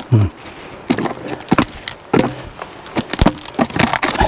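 Irregular knocks, clanks and scrapes of a steel log-handling tool gripping a firewood log and the log being pulled over the ground.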